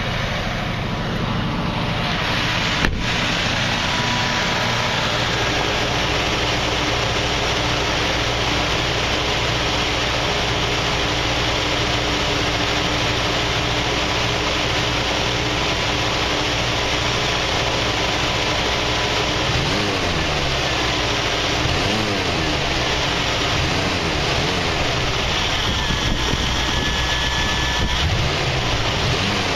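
AMC 304 V8 running at a fast idle on the choke, heard from the engine bay. There is a single sharp knock about three seconds in. From about twenty seconds in, the throttle is blipped a few times, each a short rev up and back down.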